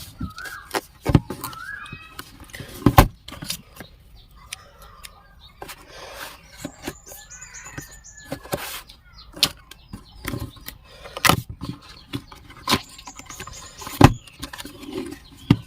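Cardboard and plastic packaging of a new boAt Bluetooth headphone box being handled and opened: a string of sharp clicks and knocks with rustling, and two longer scratchy passes. A small bird chirps a few times near the start.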